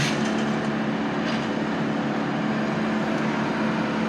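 A steady engine drone with a constant pitch, as from machinery idling, with a couple of faint clicks.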